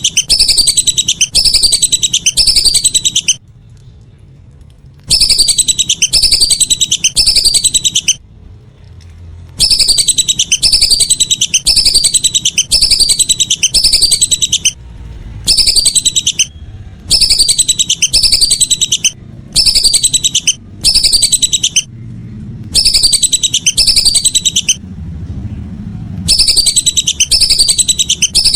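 Whistling ducks (belibis) calling in loud bursts of rapidly repeated, high, falling whistles. There are about nine bursts of one to five seconds each, separated by short pauses, over a low background rumble.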